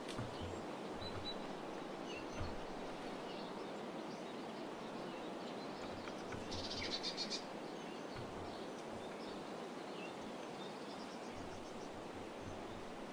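Small songbirds chirping over a steady background hiss, with a short fast run of chirps about seven seconds in. Faint low bumps come and go underneath.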